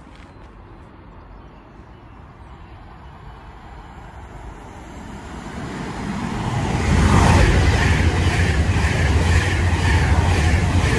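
Avanti West Coast Class 390 Pendolino electric train passing through the station at speed. Its noise builds as it approaches, then it goes by loud from about seven seconds in, a heavy rumble with a regular beat of wheels over the rails.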